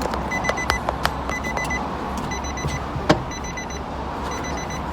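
Electronic beeping in quick groups of about four short high pips, repeating roughly once a second, over a steady machine drone, with a few sharp clicks.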